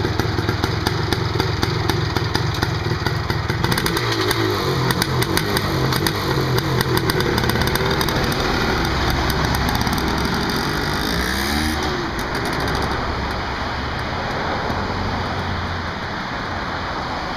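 1978 Yamaha DT400E's single-cylinder two-stroke engine running. It holds steady at first, then rises and falls in pitch several times, and grows gradually quieter over the last few seconds.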